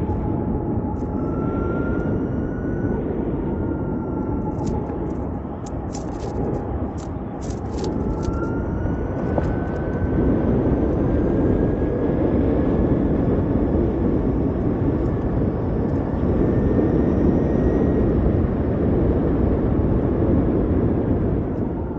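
Ather 450X electric scooter on the move: wind and road noise rushing over the microphone, with the electric motor's whine rising slowly in pitch as it picks up speed from about eight seconds in. A few sharp clicks come between about five and eight seconds.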